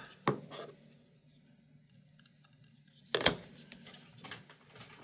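Small fan parts being handled on a workbench: light clicks and scraping, with one sharp knock about three seconds in.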